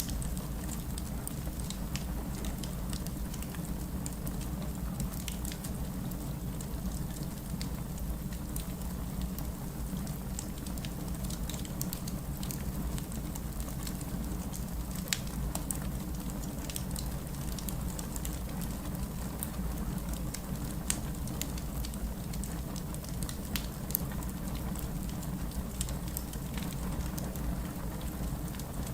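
Steady rain mixed with a crackling fireplace, the fire giving scattered sharp snaps and pops over the even hiss and low rumble of the rain.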